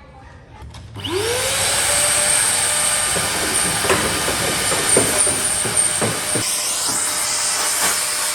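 A small motor spins up with a quickly rising whine and then runs steadily with a loud hiss. Several sharp knocks come through in the middle.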